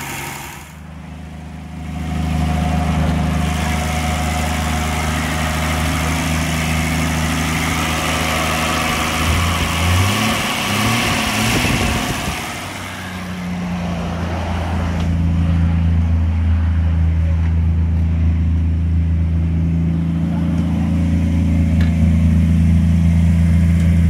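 Toyota Land Cruiser FJ45's carburetted inline-six petrol engine, a barn find running again after 25 years standing. It drops away briefly, picks up again about two seconds in and runs steadily. Around ten seconds in the revs rise and fall a few times, then it settles into a steady, slightly louder run.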